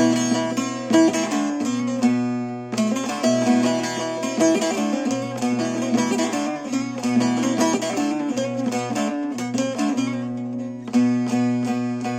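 Instrumental music on a plucked string instrument: quickly picked notes over steady held low notes.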